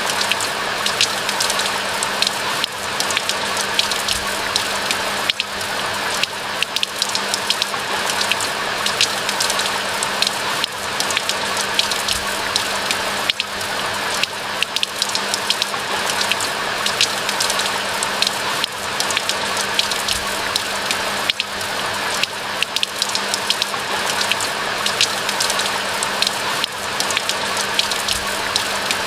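Steady rain falling, a continuous hiss made of a dense patter of raindrops, over a faint steady low hum.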